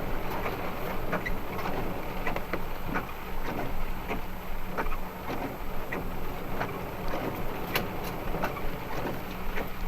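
BT Cruiser motorhome heard from inside the cab: a steady low engine and road hum with scattered light ticks and knocks.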